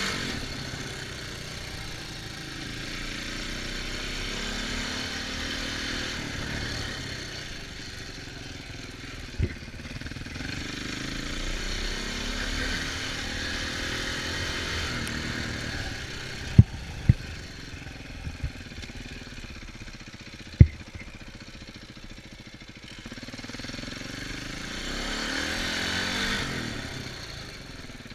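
Off-road dirt bike and four-wheeler engines revving up and falling away over and over, rising and fading as they ride. A few sharp knocks stand out: one about nine seconds in, a cluster around seventeen seconds, and one about twenty seconds in.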